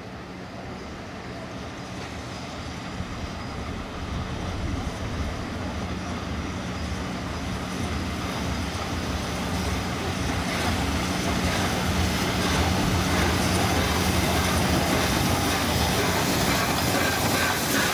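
Train running on the rails, growing steadily louder as it draws near, with a steady low hum.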